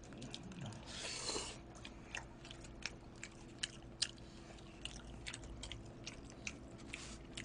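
Quiet eating sounds: chewing of pizza and spaghetti, with scattered small clicks and smacks and a soft rustle about a second in.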